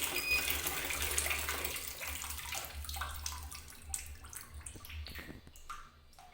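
Water running into an automatic washing machine's tub, dying away over the last few seconds as the flow stops: the repaired inlet supply now behaves normally. A short high beep sounds just after the start.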